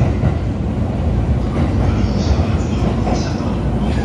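Passenger train running along a station platform, heard from inside the carriage: a steady, loud low rumble with some hiss above it.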